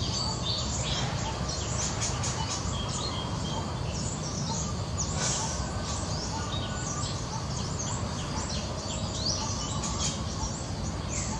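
Many small birds chirping, a string of short high calls overlapping throughout, over a steady background hiss and rumble.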